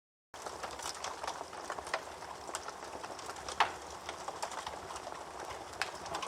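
Campfire crackling: burning wood hissing with many small irregular pops, and one sharp, louder pop about halfway through. The sound cuts in suddenly a moment after the start.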